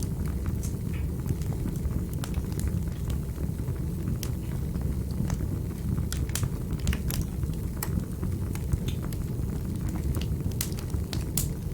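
Wood fire burning in a fireplace: a steady low rumble of flames with irregular sharp crackles and pops of the burning wood.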